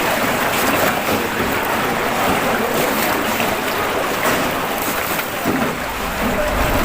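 Steady wash of water and wind noise on a small tour boat moving along a river. A low wind rumble on the microphone comes in near the end.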